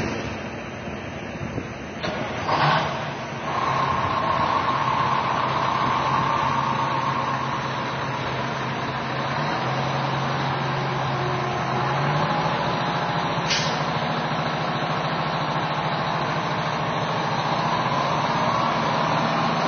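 Diesel engine of an old heavy truck running, surging loudly about two seconds in, then settling to a steady run. Its speed dips near the ten-second mark and picks up again around twelve seconds, with a short sharp sound just after.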